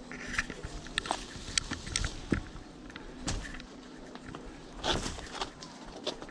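Scattered clicks, knocks and rustles of hands-on work as a cable is worked loose from tree branches, a dozen or so irregular sharp knocks, a few of them louder.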